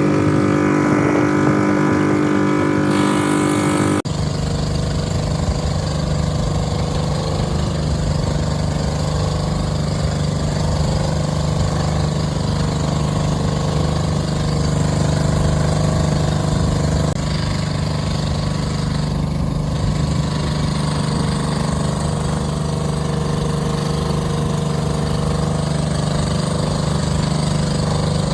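Boat engine running steadily. About four seconds in, the sound changes abruptly to a lower, steady engine note.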